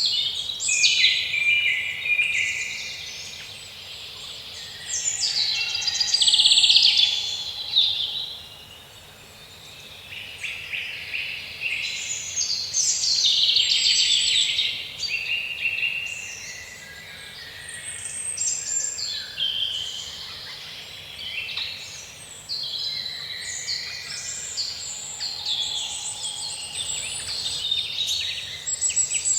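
Forest birdsong: several birds singing and calling at once, overlapping chirps and rapid trills in a continuous chorus that swells and fades.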